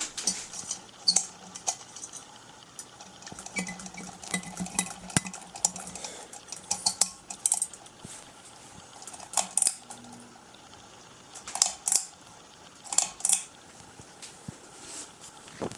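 Irregular light clinks and rattles from a 52-inch Hunter low-profile ceiling fan's loose light kit as the fan runs with a slight wobble. A faint low hum runs through the first half.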